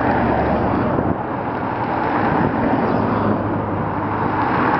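American V8 cars, Ford Mustang GTs and a Dodge Challenger, driving slowly past one after another with a steady low engine note; about three seconds in, the note shifts as the next car draws close.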